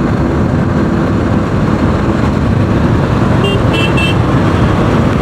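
Bajaj Pulsar 200 NS motorcycle running at road speed in traffic, its single-cylinder engine under steady wind noise on the microphone. A vehicle horn beeps three times briefly about three and a half seconds in.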